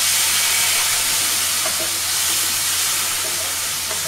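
Freshly added chopped tomatoes sizzling loudly in hot oil in a kadhai, stirred with a spatula. The steady hiss eases slightly toward the end.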